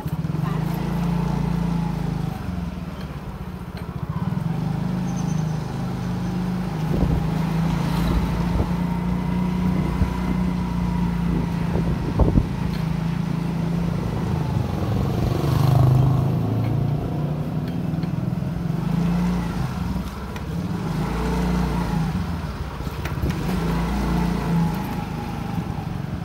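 Motorbike engine running steadily while riding, with road and wind noise, its rumble rising and falling with speed. There is a sharp knock about halfway through and a brief louder swell a few seconds later.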